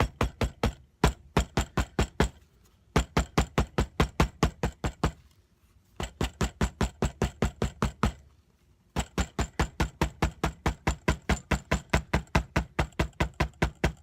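A hammer pounding a leaf against paper in quick, even strikes, about four or five a second, in runs broken by short pauses; each round beats the leaf's juice out into the page to print it.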